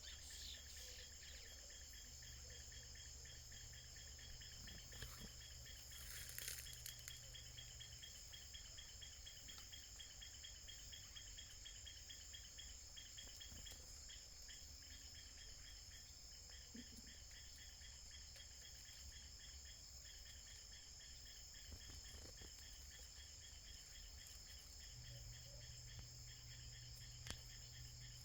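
Crickets trilling faintly in the background: a steady high drone with a rapid, even pulsing beneath it. A short burst of noise comes about six seconds in.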